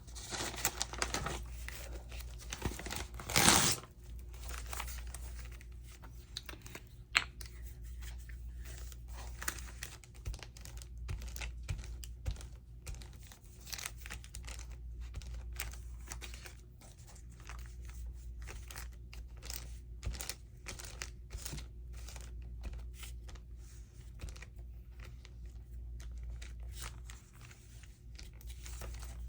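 Glue stick rubbed across paper in many short strokes, with paper being handled and rustled. There is one louder rasping rustle about three and a half seconds in.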